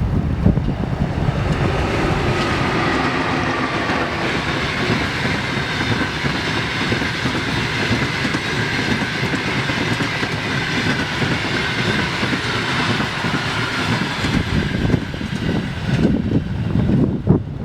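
Passenger train hauled by an EP1M electric locomotive passing at speed, a steady rush of wheels on rail that swells a second or two in and fades near the end. Wind buffets the microphone before the train arrives and after it has gone.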